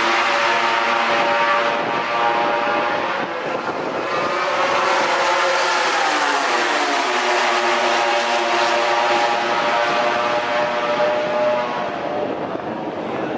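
MotoGP racing motorcycle engines at high revs, their pitch rising and falling as the bikes accelerate, shift and brake. There is a clear rise and fall in pitch around the middle.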